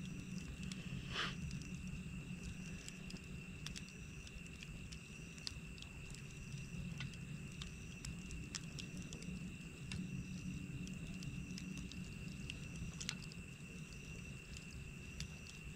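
Wood campfire crackling, with scattered sharp pops throughout, over a steady high-pitched insect trill.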